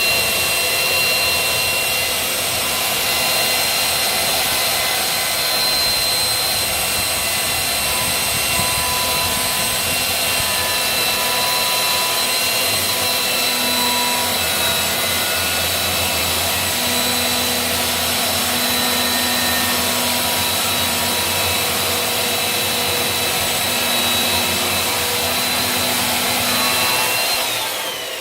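Electric saw running steadily with a high motor whine, cutting firewood. Near the end the whine falls away as the motor winds down.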